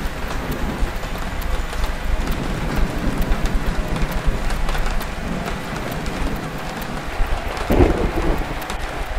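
Steady rain with scattered drop clicks, and a brief louder low rumble near the end.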